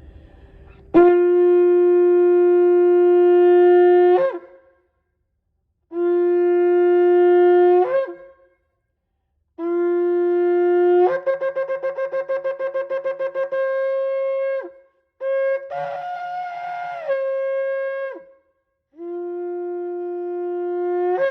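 Shofar blown in five blasts. Each is a long held low note that breaks upward to a higher one, and in the third and fourth blasts the higher note wavers rapidly in a fast, broken flutter.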